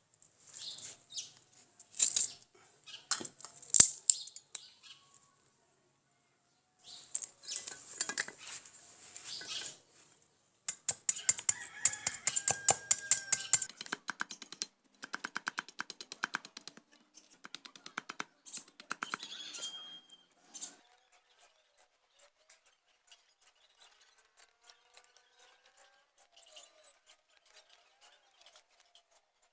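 A fowl-type bird clucking, with bursts of rapid clicking or flapping, densest in the middle, and faint short chirps in the later part.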